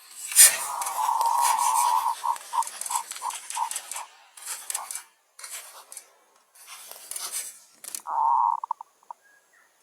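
Rustling and flapping, typical of a trapped dove struggling, starting suddenly and coming in uneven spells. A held whistle-like tone breaks into a slowing run of short pulses, once after the start and again near the end.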